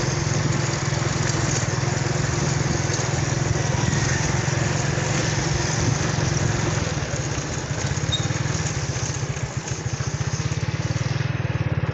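A small engine running steadily with a rapid low pulsing, over a hiss of background noise.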